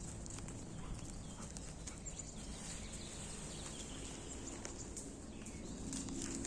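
Footsteps crunching through dry leaf litter and twigs on a forest floor, small scattered cracks and rustles, with faint birdsong in the background.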